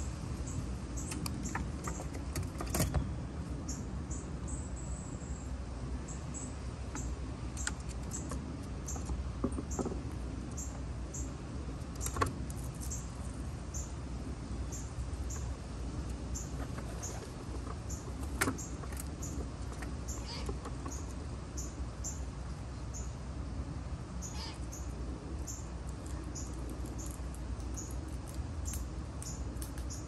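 A small bird's short, high chip note repeated about twice a second over a steady low background rumble, with a few sharp clicks scattered through.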